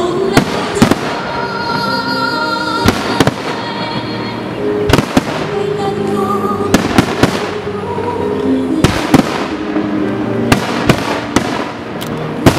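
Aerial firework shells bursting over and over: many sharp booms at uneven intervals, some in quick pairs, with music playing underneath.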